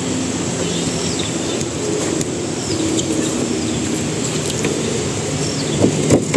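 Outdoor ambience: a steady low hum or rumble, with birds chirping briefly a few times and a few light knocks near the end.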